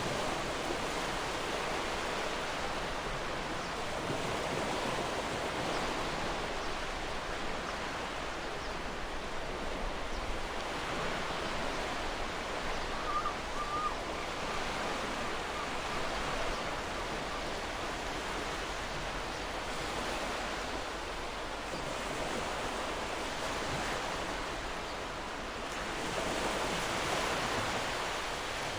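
Gentle ocean waves washing in, a steady rushing that swells every few seconds. A brief, faint bird call comes about halfway through.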